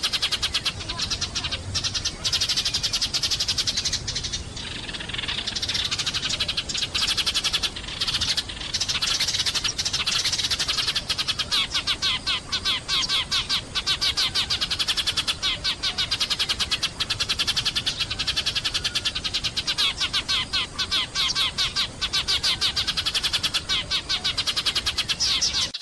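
Sparrows chirping in a dense, unbroken chatter of rapid chirps.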